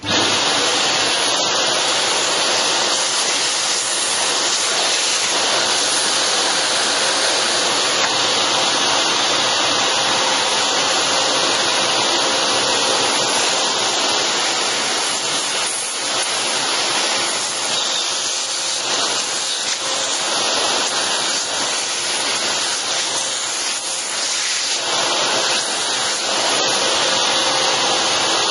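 Steady, loud rushing air from a dust-cleaning tool worked over the dust-clogged inside of a PC case. It starts suddenly and runs without a break.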